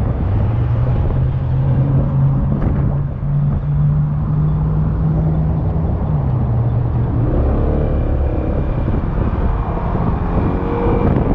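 Yamaha XMAX scooter's single-cylinder engine under way with wind and road rush. The engine note climbs about half a second in, holds steady, then drops to a lower note around six seconds in as the scooter eases off.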